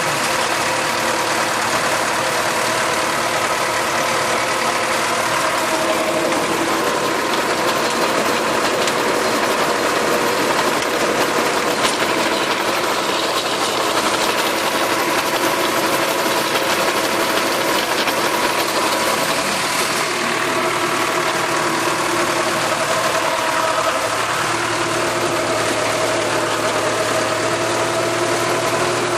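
Farm tractor engine running steadily while working a rotary tiller, a continuous engine hum over broad mechanical noise. The engine note shifts slightly about twenty-four seconds in.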